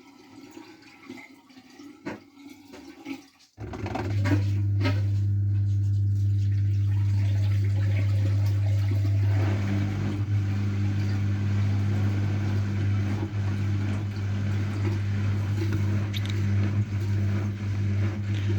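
AEG washing machine moving water with a steady low electrical hum and water rushing. The hum is off at first, with a few small clicks, and starts again about three and a half seconds in.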